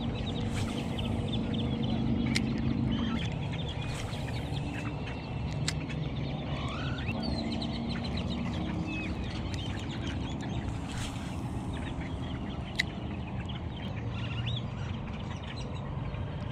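A lakeside flock of waterbirds calling, a dense chatter of many short overlapping calls. One sharp click about 13 seconds in.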